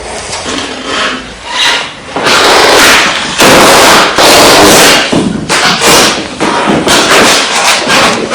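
Footsteps on a wooden floor: loud, irregular heavy thumps, with a dense stretch of rapid noise from about two to five seconds in.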